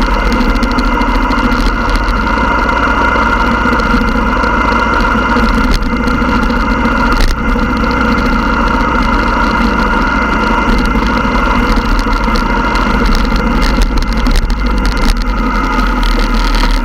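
Motorcycle engine running steadily at an even speed while riding, with a constant low rumble underneath.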